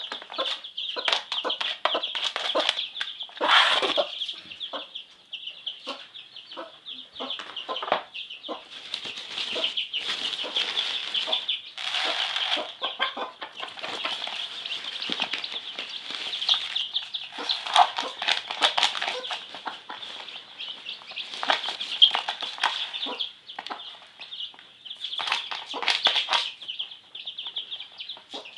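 A flock of chicks peeping continuously in high, shrill cheeps, mixed with lower chicken clucks and repeated bursts of fluttering wings.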